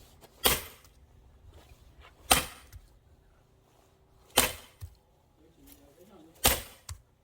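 Axe splitting firewood: four sharp cracking strikes about two seconds apart, three of them followed by a lighter knock.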